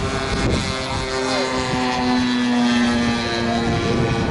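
Propeller-driven model aircraft running: a steady drone of several tones at different pitches, some shifting a little or dropping out.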